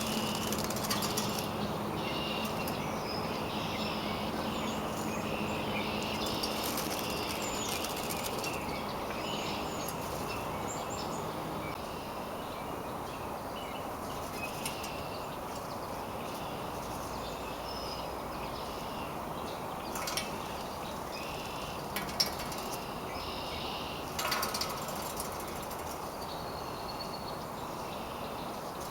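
Birds chirping and calling over a steady low outdoor hum, with a few sharp clicks in the last third.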